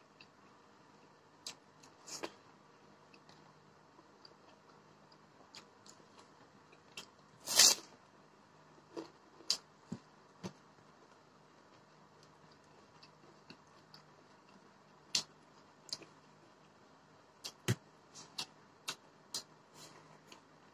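Quiet mukbang eating sounds from rice eaten by hand: scattered small clicks and smacks of chewing, with one louder, short sharp sound about seven and a half seconds in.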